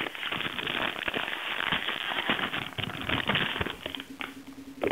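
Crinkling of a plastic-foil Doritos chip bag being handled and opened: a dense crackle of rustles that dies down about four seconds in, leaving a faint steady low hum.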